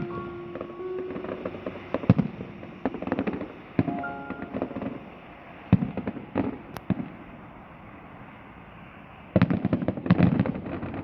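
Fireworks going off at a display: scattered sharp bangs and crackles, then a dense rapid volley of bangs near the end.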